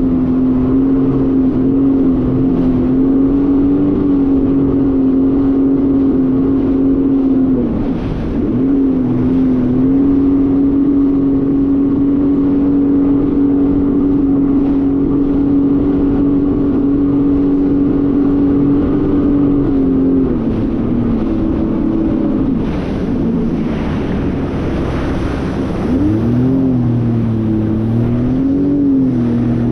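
Jet ski engine running at a steady cruising speed, with wind and water rushing past. The engine pitch dips briefly about eight seconds in, drops lower about two-thirds of the way through, then rises and falls twice near the end as the throttle is worked.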